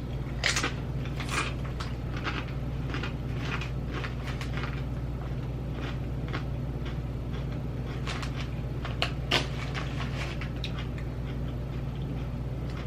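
Dill pickle tortilla chips being crunched and chewed in irregular crisp crunches, about one every half second to second, over a steady low hum.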